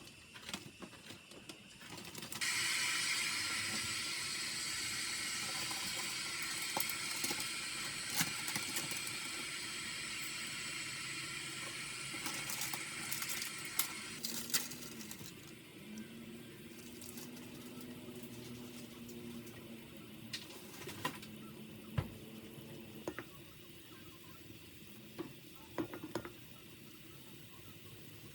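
Kitchen tap running into a sink, turned on about two seconds in and easing off about halfway through, with scattered clinks and knocks of dishes or utensils.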